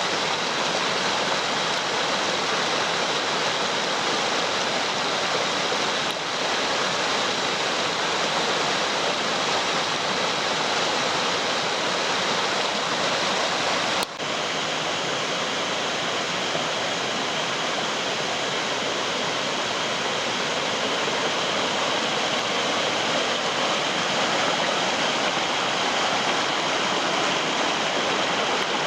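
Rain-swollen stream rushing steadily. A short click and a brief drop in level come about halfway through.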